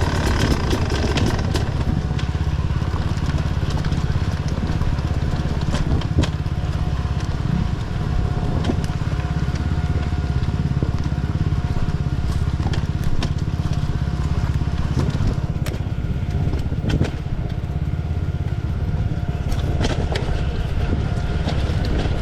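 Off-road enduro motorcycle engine running steadily at low revs, with a few scattered clicks and knocks.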